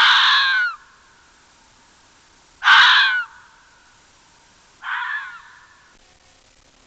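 An animal giving three harsh calls, each a little under a second long, evenly spaced, the third one quieter.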